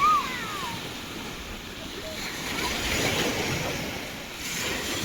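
Sea waves washing on a beach, the surf swelling and fading in slow surges. A short high cry that falls in pitch opens it, the loudest moment.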